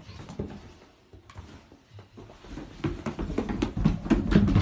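A dog's paws thudding on stairs as it comes down, a quick irregular run of soft thumps that grows louder over the last two seconds.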